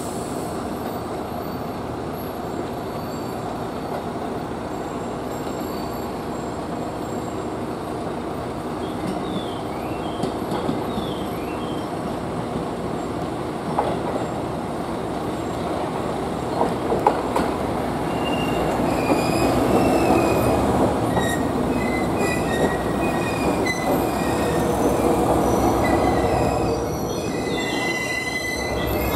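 Diesel train running with a steady engine and rail rumble, rising in the second half, with repeated high-pitched wheel squeals.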